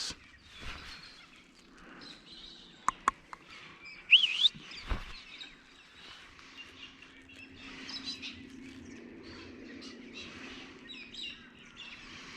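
Wild birds chirping and calling, with one louder rising call about four seconds in. A couple of sharp clicks come just before it and a dull thump just after.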